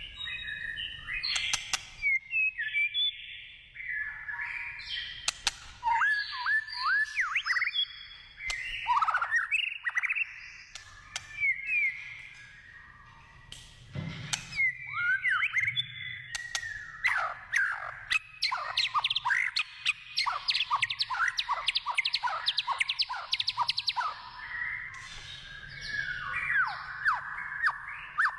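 White-rumped shama singing a long, varied run of whistled phrases that glide up and down, breaking into a fast stretch of rapid repeated notes past the middle. Scattered sharp clicks and a dull thump about halfway through.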